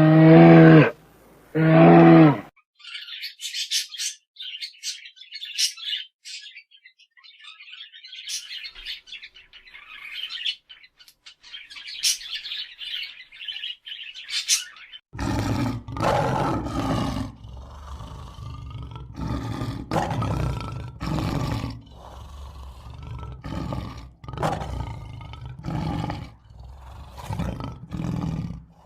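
A run of animal calls: a few deep, pitched lowing calls in the first couple of seconds, then about twelve seconds of high chirping and twittering, then repeated loud, low, rough roaring calls from about halfway to the end.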